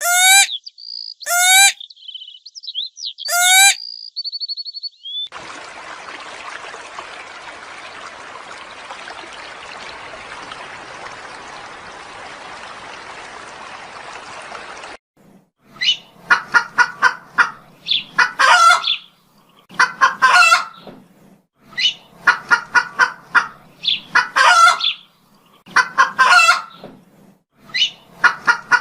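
Chickens calling in repeated bursts about every two seconds through the second half. Before that come three sharp falling bird calls with a short trill, then about ten seconds of steady hiss.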